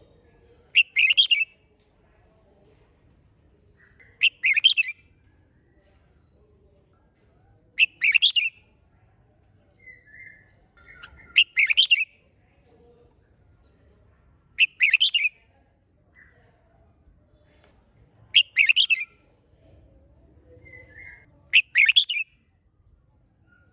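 Red-whiskered bulbul singing its competition song: seven short, bright phrases about every three and a half seconds, with a few soft short notes between them.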